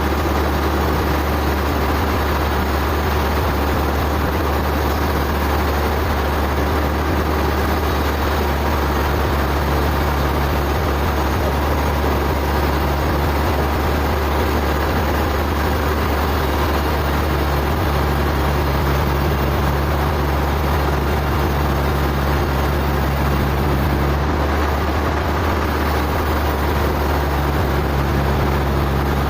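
Sawmill machinery running steadily, with a strong deep hum under constant mechanical noise.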